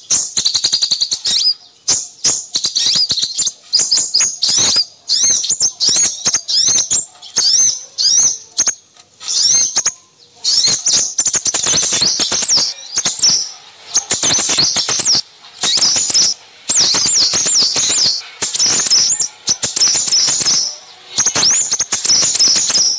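Recorded chorus of small songbirds chirping and twittering in fast, high, tumbling phrases with short breaks. It is played as a lure call (pikat) to draw in crimson sunbirds.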